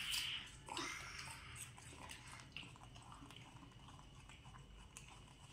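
Faint crunching and chewing of crisp green fruit slices, in small irregular bites. A louder vocal sound from a child fades out in the first half second.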